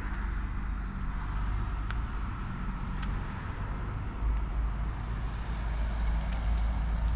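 Toyota Hilux Arctic Truck running, a steady low engine and road rumble that swells slightly partway through, with a few faint clicks.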